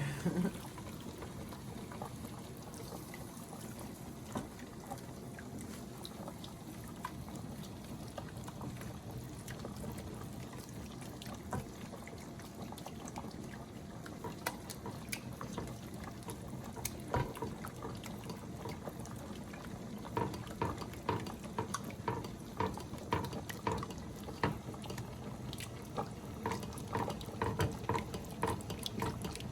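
Heavy cream poured slowly into a flour roux in a pan while it is stirred: a soft pouring and slurping of liquid over a low steady hiss. About two-thirds of the way through, a utensil begins tapping quickly against the pan as the stirring goes on.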